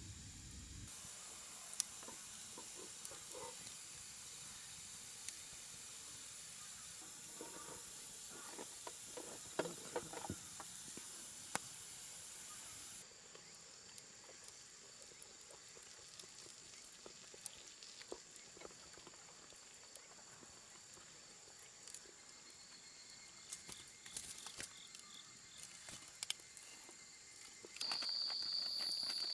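Faint outdoor night ambience: a steady high insect drone with scattered small crackles and ticks, in a few cut segments. Near the end a louder, higher insect trill comes in.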